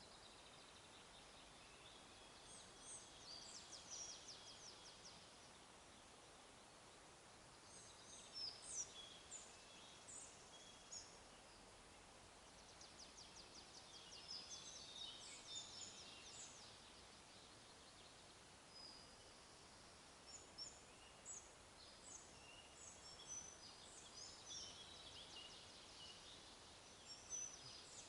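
Faint songbirds singing in woodland: short phrases of high chirps and rapid trills every few seconds, over a faint steady hiss.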